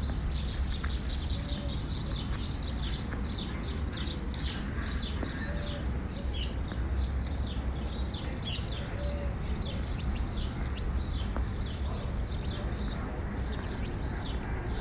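Small birds chirping busily, many quick high chirps a second, over a steady low rumble.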